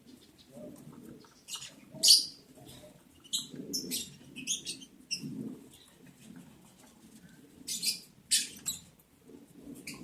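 Lovebirds chirping: short, sharp, high squeaks and chirps at irregular intervals over a low background murmur.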